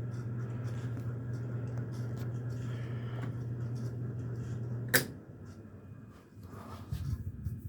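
Homestead Universal Monterrey ceiling fan motor running on high with a loud steady hum, its bearings worn out. About five seconds in a sharp click of the wall control switch cuts the power and the hum stops, leaving some low irregular rumbling near the end.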